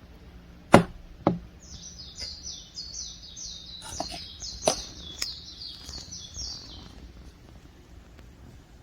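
A songbird singing a rapid run of short, high, repeated notes for about five seconds. Just before the song, two sharp knocks, the loudest sounds here, with a few softer clicks during it.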